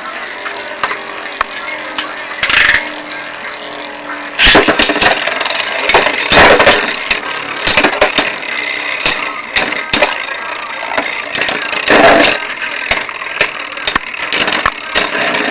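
Lightning L-Drago and Legend Knight Virgo Beyblade spinning tops battling in a stadium. A faint steady whir comes first. From about four seconds in there is a loud run of scraping and sharp clicking knocks as the tops spin and collide.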